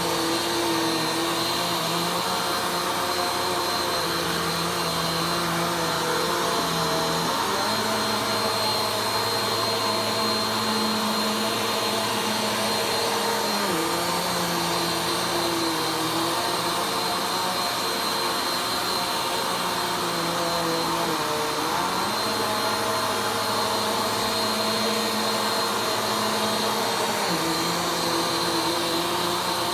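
Vacuum cleaner running steadily during slow vacuuming, with a high whine. Its lower hum steps up and down in pitch every several seconds.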